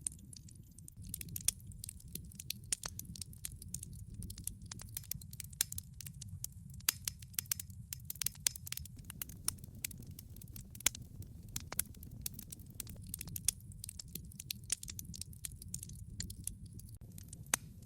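Wood fire in a fireplace: burning logs crackling with many sharp, irregular pops over a steady low rumble of the flames.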